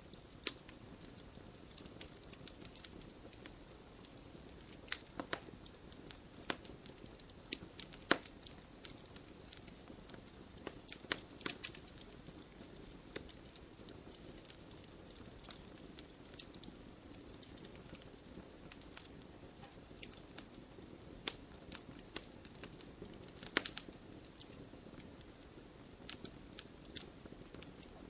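Wood fire in a fireplace crackling: irregular sharp pops and snaps over a steady low hiss and rumble of the flames.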